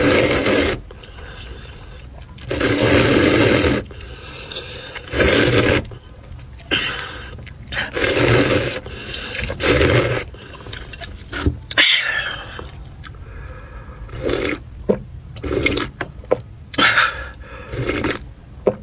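Close-miked eating sounds: wet chewing and mouth noises, with several loud bursts about a second long and shorter smacks between them.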